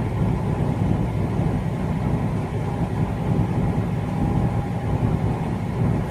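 Steady low rumble of a vehicle engine running, with a faint steady whine above it.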